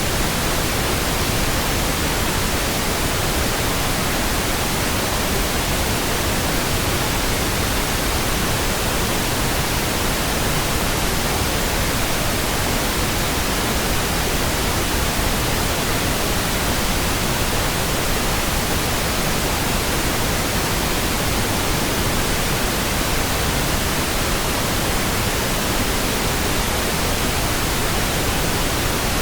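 Steady synthetic pink noise: an even, unchanging hiss spread across the whole range, with no tones or sudden sounds.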